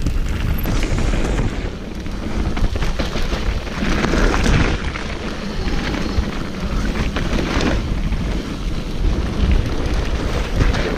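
Wind buffeting an action camera's microphone while riding a mountain bike, a continuous heavy rumble, with the bike rattling and knocking over rough trail.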